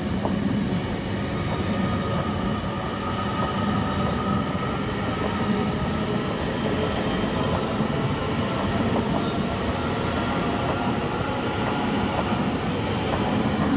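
Steady running noise of a passing high-speed passenger train, a Great Western Railway Intercity Express unit, with its wheels on the rails at speed as the long rake of carriages goes by.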